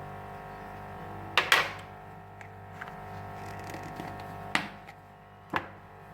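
A spoon taps lightly on kitchenware three times while baking powder is added to a mixing bowl, over a steady faint background hum.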